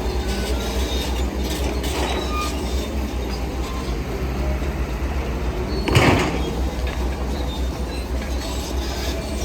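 Heavy diesel earthmoving machinery running with a steady low rumble and scattered metallic clanks and squeals, and one loud bang about six seconds in.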